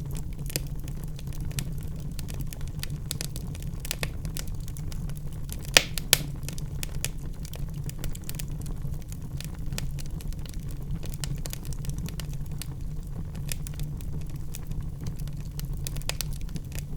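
Wood fire in a fireplace burning with a steady low rumble and irregular crackling of the logs, with two loud pops close together about six seconds in.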